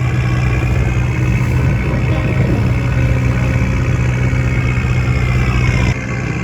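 Engine of a traditional wooden passenger boat running steadily under way, its level dropping suddenly near the end.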